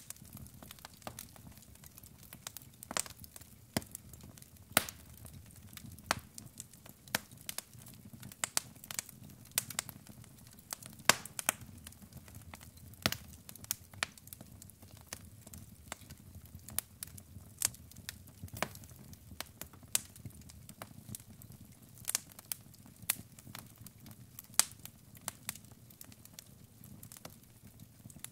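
Logs burning in a fireplace, crackling with frequent, irregular sharp pops of varying loudness over a faint, low, steady rush.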